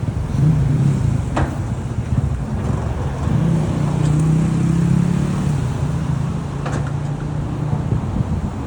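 Motor vehicle engine running with a steady low drone, with a few brief clicks over it.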